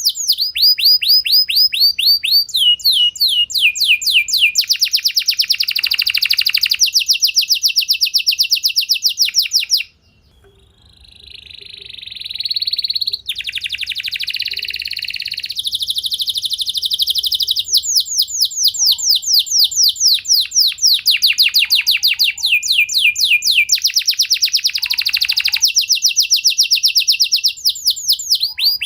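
Domestic canary singing: long fast trills of rapidly repeated high notes, switching from one rolling phrase to the next, with a brief break about ten seconds in followed by a rising buzzy phrase.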